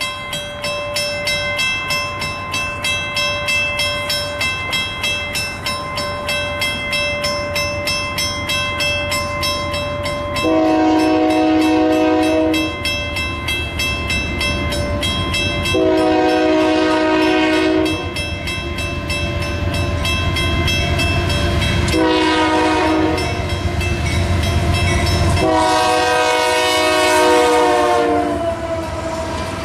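Approaching freight locomotive sounding its horn in the grade-crossing pattern: two long blasts, a short one and a final long one, the last sagging slightly in pitch as it nears. Before the horn starts, a bell rings rapidly, about twice a second. A low diesel rumble grows under the horn blasts.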